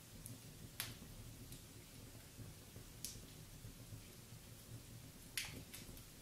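Wood fire in a fireplace crackling softly: a few sharp pops, one about a second in, one at three seconds and a close pair near the end, with fainter ticks between, over a faint low background.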